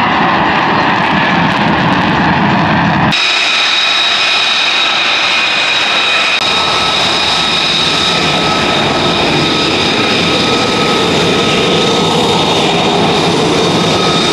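Aircraft engine noise, loud and steady. About three seconds in, a deep engine sound changes abruptly to steady engine noise with a high-pitched whine through it.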